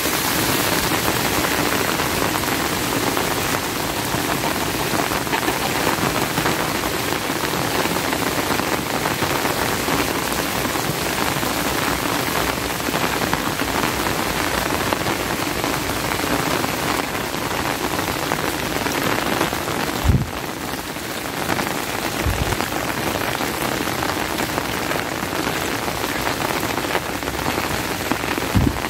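Steady heavy rain falling, a dense even hiss of drops. A few short low thumps come through it, about twenty seconds in, again two seconds later, and near the end.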